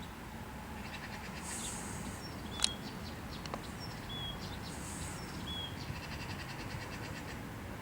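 Outdoor chirping of small wild animals: short high chirps and fast buzzy trills. A single sharp click comes about two and a half seconds in.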